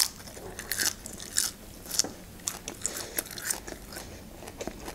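Close-miked chewing of a raw spinach leaf: irregular crisp crunches and wet mouth clicks.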